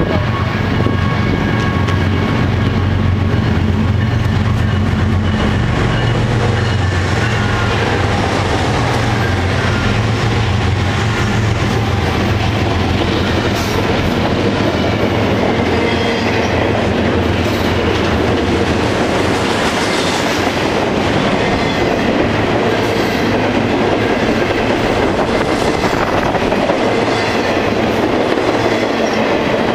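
Double-stack intermodal freight train passing close by. Its diesel locomotives drone deeply for the first dozen seconds or so, then give way to the steady rolling rumble and clickety-clack of the stack cars' wheels on the rails.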